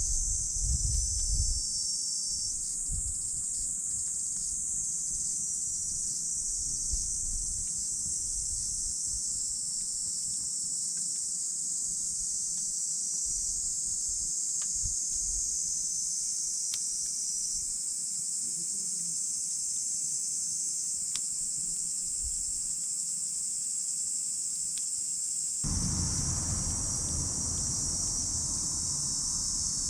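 Steady high-pitched insect chorus, crickets trilling, with a few sparse crackles from a wood campfire. A low rushing noise comes in near the end.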